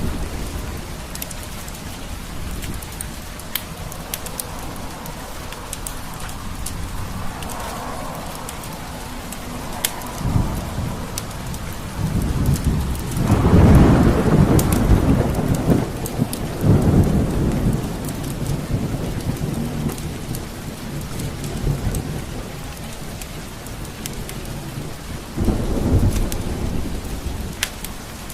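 Steady heavy rain with low rolls of thunder rumbling up four times, the loudest about halfway through. Sharp crackles from a fireplace fire pop now and then.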